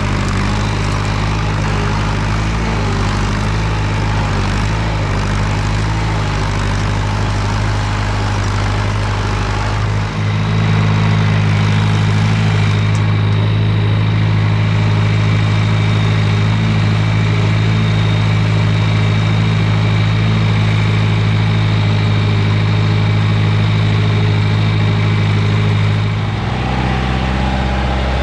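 John Deere 2510 tractor engine running steadily, throttled up and louder about ten seconds in, then dropping back in speed near the end.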